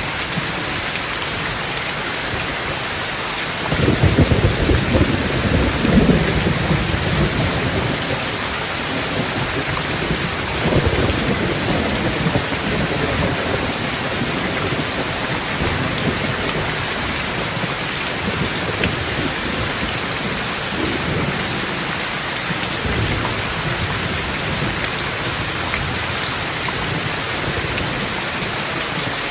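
Steady heavy rain hissing, with thunder rumbling low, loudest from about four to seven seconds in and again more briefly around eleven seconds, then fainter rumbles later on.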